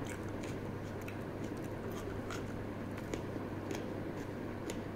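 Chewing a mouthful of raw long bean salad close to the microphone: irregular small crunches and clicks, a few each second, over a steady low hum.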